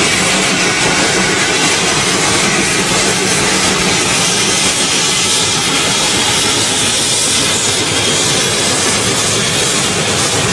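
Steam locomotive running close by, giving a loud, steady rush of steam and running noise without a clear beat.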